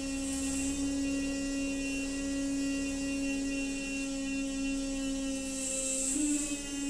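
Noisy water pipe humming: a steady droning tone with many overtones over a hiss of flowing water. About six seconds in the pitch briefly warbles and the hiss swells.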